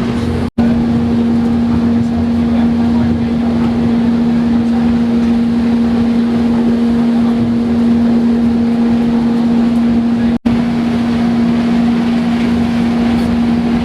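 A mountain railway train's engine running with a steady low drone, heard from on board over a bed of running noise. The sound cuts out briefly twice, once about half a second in and again near the end.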